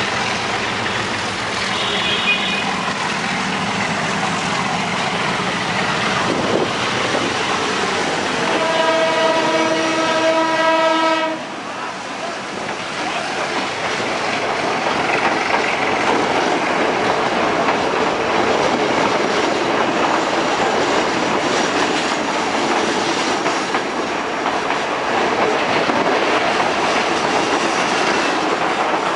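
A passenger train passing right beside the rail, its wheels rumbling and clacking over the track. A two-and-a-half-second horn blast sounds about a third of the way in.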